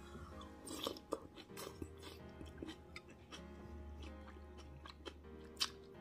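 Close-miked chewing and wet mouth sounds as a mouthful of kilawing mahi mahi (raw fish with onion and ginger) is eaten, with many short, sharp clicks. Faint background music underneath.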